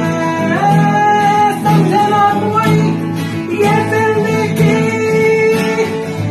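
A guitar strummed under a singer holding long notes of a Hindi song, the melody moving to a new pitch about every second.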